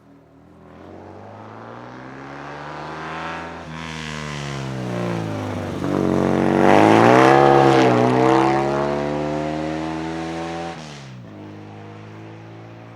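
Volkswagen Golf Mk1 accelerating hard past, its engine pitch climbing through the gears with two shifts, loudest about seven seconds in. It then fades as it pulls away and drops off sharply near the end.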